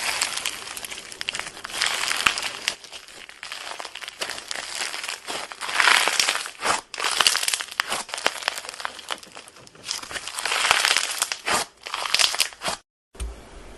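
Close-miked crackling and crinkling of a crunchy material being worked, thick with tiny cracks and pops that swell and ease in waves. It cuts off abruptly near the end, and a quieter rustle follows.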